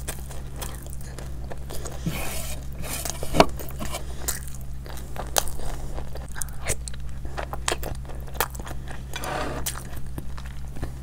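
A person eating: crunchy bites and chewing, heard as many short, sharp crunches and clicks, the loudest about three and a half seconds in.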